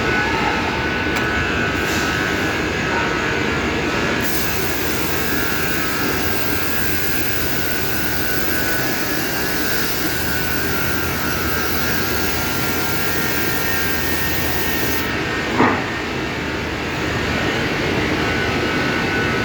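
Robot vacuum cleaner running: a steady whirring hiss with a thin high whine, growing brighter for most of the middle stretch, and one short knock about three-quarters of the way through.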